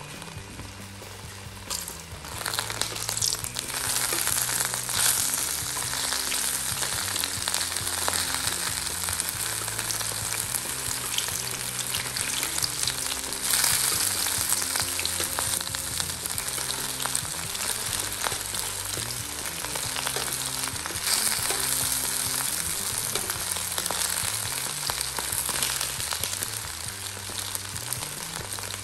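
Hot cooking oil sizzling in a wide aluminium wok around a foil-wrapped stuffed milkfish (relyenong bangus) as it fries, with a metal spoon ladling oil over the foil. The sizzle grows louder a few seconds in and keeps going.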